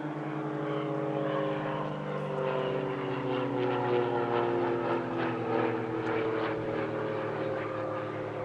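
Propeller engines of two aerobatic monoplanes, a CAP 232 and an Extra 300L (six-cylinder Lycoming piston engines), droning through a display pass. The engine pitch falls slowly throughout, and the sound eases off near the end.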